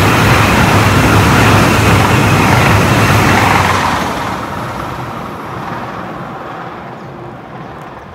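A train passing close by: a loud, steady rush of noise that begins to fade about three and a half seconds in and dies away gradually as the train moves off.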